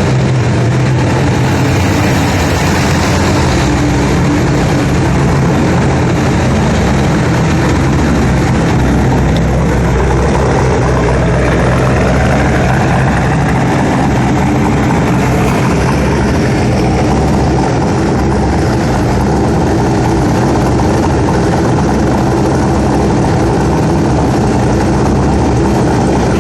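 Twin-turbocharged 364 cubic inch V8 of a C5 Corvette running steadily and loudly, with a faint rising tone around the middle.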